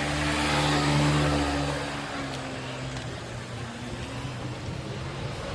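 Steady low mechanical hum over a hiss; its lowest tones drop away about two seconds in, leaving a fainter, even hum.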